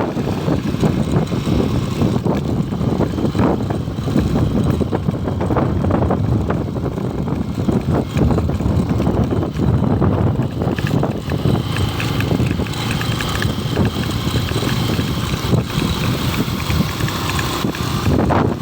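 Riding a motorcycle: wind buffets the microphone in a continuous rumble, with the engine running underneath.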